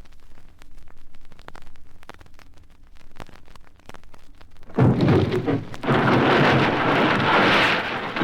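Thunder sound effect off a vinyl record: surface crackle and pops, then about five seconds in a sudden loud crash with a roll of noise that lasts about three seconds.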